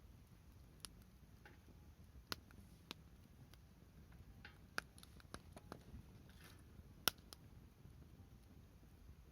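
Wood fire crackling in a fire pit: sparse sharp pops and snaps over a soft low rumble of burning, with the loudest pop about seven seconds in.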